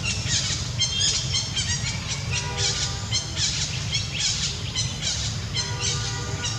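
Birds chirping in quick, high, repeated notes, with a lower pitched call twice, over a steady low rumble.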